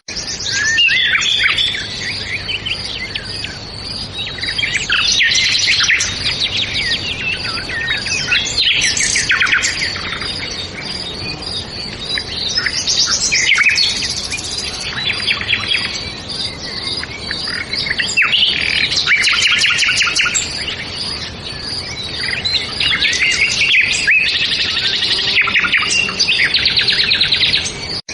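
Several songbirds chirping and singing together, with quick overlapping trills and twitters that swell every few seconds, over a soft steady background hiss.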